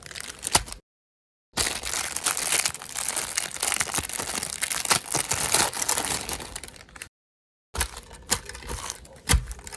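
Meat grinder grinding material through, a dense crackling noise full of sharp clicks, in several edited clips separated by two brief dead silences.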